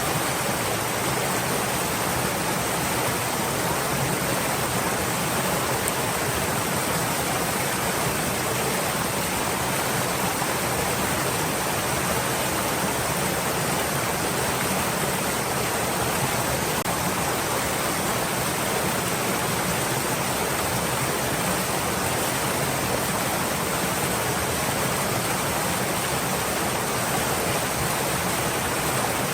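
Stream water flowing steadily, a continuous even rushing with no change in level.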